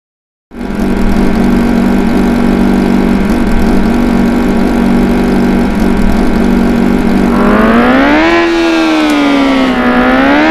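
A loud, steady droning tone starts suddenly about half a second in. About seven seconds in its pitch begins to slide up and down in slow, siren-like wails.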